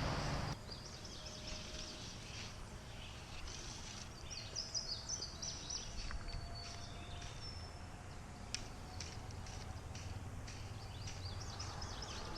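Birds chirping and singing faintly over a low, steady outdoor background noise, in two spells a few seconds apart.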